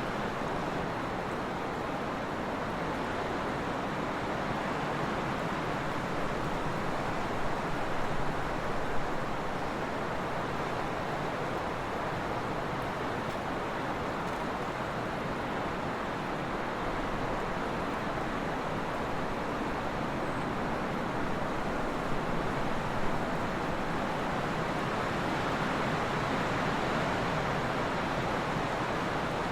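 Trade wind blowing steadily, an even rushing noise with slight swells and two brief louder moments, about a third of the way in and again past two-thirds.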